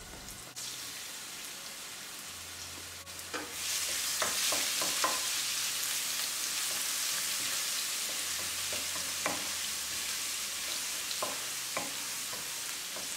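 Finely chopped garlic and ginger sizzling in hot oil in a nonstick wok, stirred with a wooden spoon that knocks and scrapes the pan now and then. The sizzle grows louder about three and a half seconds in.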